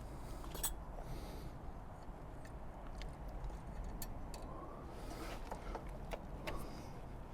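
Scattered light metallic clicks and taps from hand tools and small parts being handled during side-stand work on a motorbike, with a brief faint rising squeak about five seconds in, over a low steady hum.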